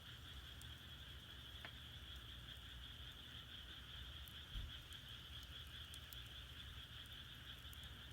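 A faint, steady chorus of frogs calling, with a low rumble and a few soft crackles from firewood burning in a traditional Korean agungi firebox.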